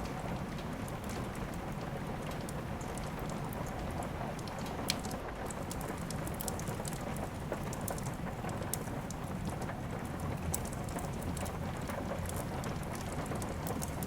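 Steady rain mixed with the crackle of a fireplace fire: a constant hiss of rainfall under scattered sharp pops and clicks, the loudest pop about five seconds in.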